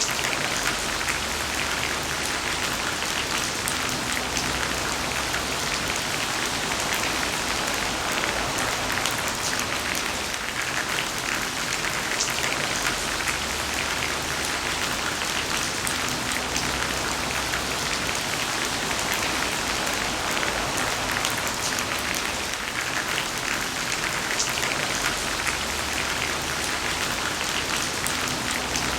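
Heavy rain falling steadily, a dense patter of drops with a faint low rumble that comes and goes.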